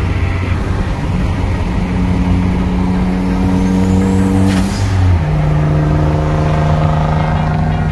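Turbocharged Infiniti G35's VQ V6 running hard at highway speed as it pulls alongside. A faint rising turbo whistle is followed by a short sharp hiss and a drop in the engine note about five seconds in.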